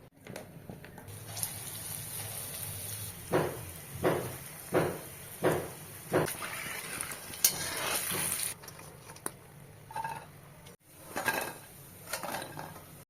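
Dal pakoras frying in hot oil with a steady sizzle, over five evenly spaced clinks of kitchen utensils about one every 0.7 s. More clatter comes near the end.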